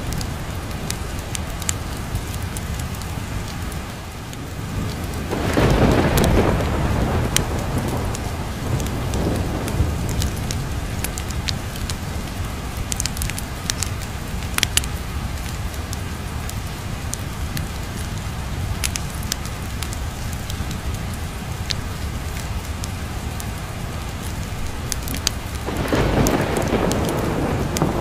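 Steady rain with thunder rolling in twice, about five seconds in and again near the end, over a field of sharp pops and crackles typical of a wood fire.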